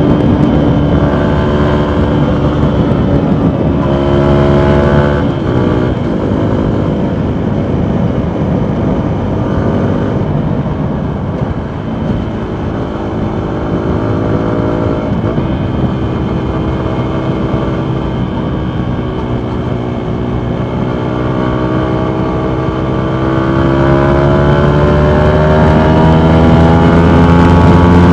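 Single-cylinder 125cc engine of a 2019 Yamaha MT125 running through a full Akrapovic exhaust while riding. Its pitch drops at first and shifts around five seconds in, then holds fairly steady at cruise. Over the last several seconds it rises and grows louder as the bike accelerates.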